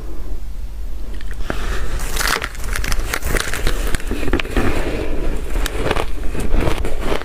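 Shaved ice dipped in water being bitten and chewed close to the microphone: continuous dense crunching and crackling, with a steady low hum underneath.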